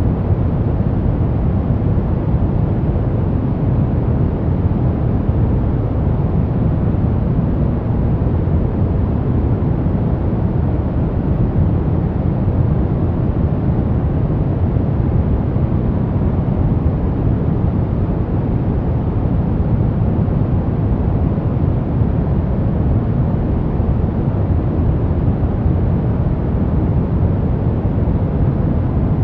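Steady white-noise track: an even, deep rushing hiss, heavier in the low end than in the highs, with no change.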